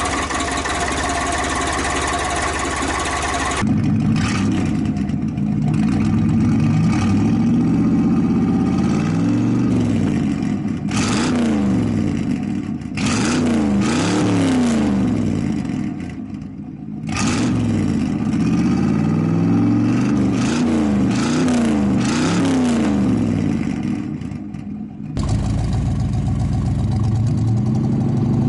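Engine running through a Flowmaster Super 10 muffler held over its exhaust, revved up and down over and over. The sound changes abruptly a few seconds in, and again near the end.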